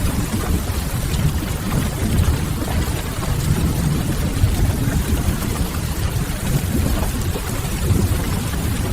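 Steady rain with a low, constant rumble beneath it, as in a mixed rain-and-fireplace ambience track. It keeps an even level with no distinct events.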